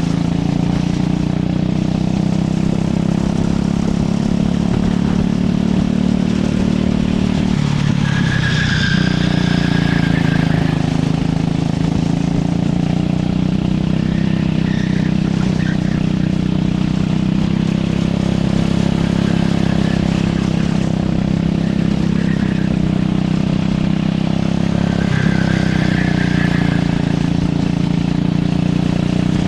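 Racing kart engine running hard through a lap, with the pitch dipping twice, about 8 and 25 seconds in, as the kart slows for corners, then climbing again under acceleration.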